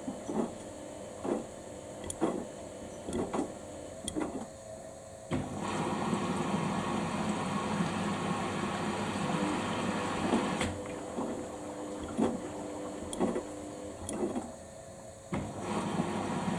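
Samsung washing machine running a quick wash cycle: the drum motor whirs as the drum turns, with soft knocks about once a second. A louder, steadier run of motor noise starts suddenly about five seconds in, stops briefly near the end, then resumes.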